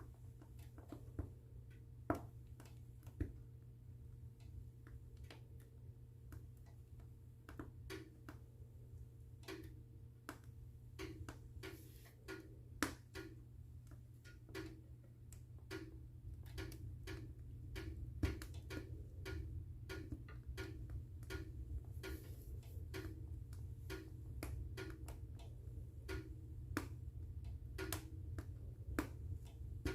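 Wood fire burning in a fireplace: irregular crackles and sharp pops, a few of them louder, over a low steady rumble.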